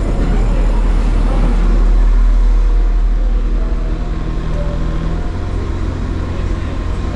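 Train engine running with a steady low rumble and hum; the pitch of the hum shifts about five seconds in.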